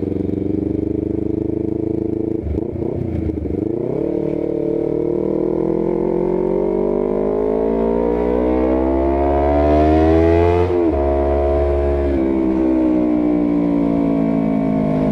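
Honda CBR250RR motorcycle engine through an R9 GP series full-system aftermarket exhaust, under way on the road. After a dip about three seconds in, the revs climb steadily for about seven seconds, drop sharply about eleven seconds in, then fall slowly as the throttle eases. The exhaust note is called 'seger banget' (really fresh).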